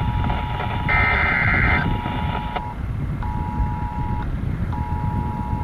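Weather radio alert signal between broadcast messages: a high, warbling digital data burst lasting about a second about a second in, and a steady high beep tone that stops and starts again twice. Low road rumble from the moving vehicle underneath.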